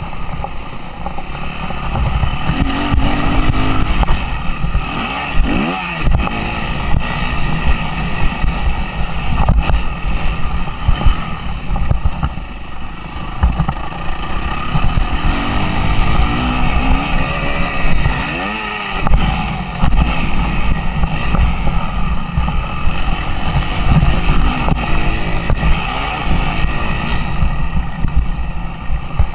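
Suzuki RM-Z 250 four-stroke single-cylinder motocross engine running hard under load, its revs rising and falling as the rider accelerates and shifts, with two clear rev swoops about six and nineteen seconds in. Wind buffets the microphone.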